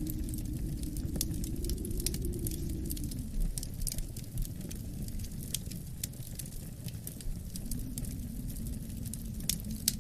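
Wood fire crackling with many irregular sharp pops, over a low howling wind that swells, fades about three seconds in, and rises again near the end.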